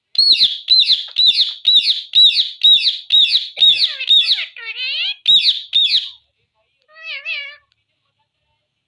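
Indian ringneck parrot calling: a rapid run of loud, shrill, repeated squawks, about two or three a second, then after a pause a single shorter, softer warbling call.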